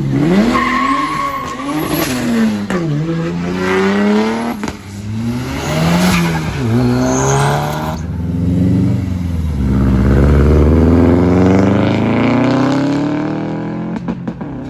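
Car engine revved hard and let fall about five times, then held high for a few seconds before dropping near the end, with tyres squealing as they spin in a burnout.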